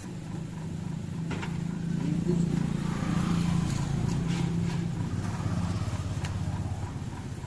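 A motor vehicle's engine passing by: a low, steady hum that grows louder to a peak about three seconds in, then fades away.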